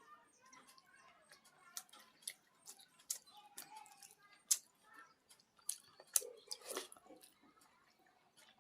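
Close-up eating sounds: chewing and wet mouth clicks and smacks while eating water rice with fried vegetables, coming as irregular short clicks with a louder cluster about six to seven seconds in.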